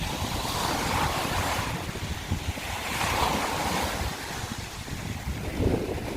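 Sea waves breaking and washing over a shore of broken scallop shells, in swells that rise and fall every second or two, with wind rumbling on the microphone.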